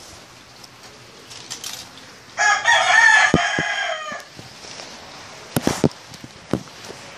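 A rooster crowing once, a loud call of about two seconds, over a steady hiss, followed by a few sharp clicks.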